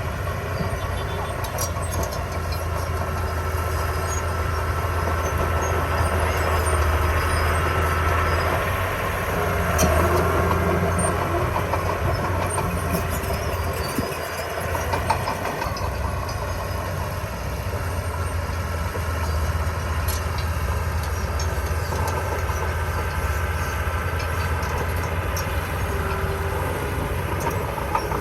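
Komatsu D20P crawler bulldozer's diesel engine running steadily, louder for a few seconds about a third of the way in as it works, with the clanking of its steel tracks.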